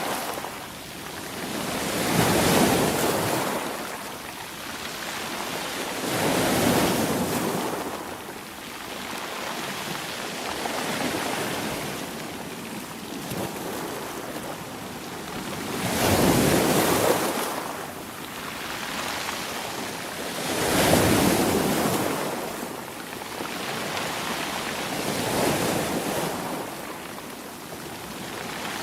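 Sea waves breaking on the shore, each one swelling to a crash and washing away, about five of them at intervals of a few seconds, over a steady hiss of surf.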